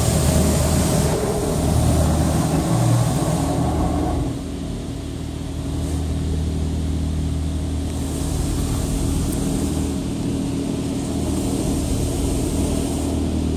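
Automatic car wash rinse heard from inside the car: water jets spraying over the car body on top of a steady low hum from the engine and wash machinery. The spray is heaviest for about the first four seconds, then drops to a lighter hiss that swells now and then.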